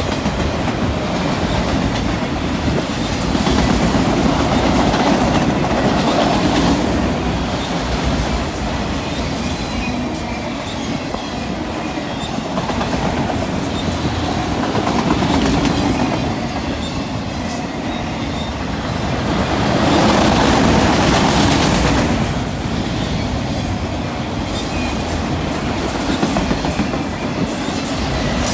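Freight train cars rolling past on the rails, wheels clicking over the rail joints, the noise swelling and easing every few seconds.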